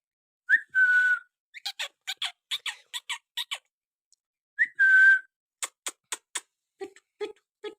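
Two short whistles, each a quick upward slide settling into a held note, about four seconds apart. Between and after them come runs of quick sharp clicks.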